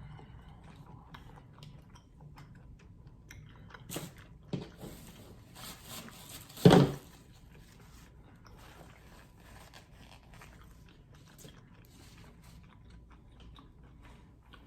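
Close-miked eating sounds: chewing and biting on seafood in butter sauce. Several sharp, louder mouth sounds come from about four to seven seconds in, the loudest just before seven seconds, followed by quieter chewing.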